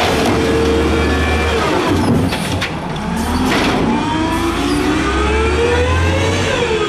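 Peterbilt 320 garbage truck's engine revving: held at high revs, dropping off about two seconds in, then climbing steadily for several seconds before falling back near the end.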